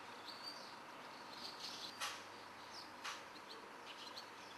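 Faint birdsong: scattered short, high chirps over a quiet outdoor hiss, with two brief clicks about two and three seconds in.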